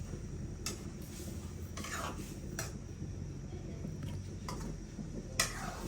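Scattered, irregular clinks and knocks of dishes and kitchen utensils, with faint voices in the background.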